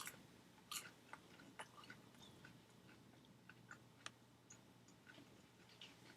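Faint chewing: a person eating, with soft, scattered mouth clicks, the loudest one about a second in.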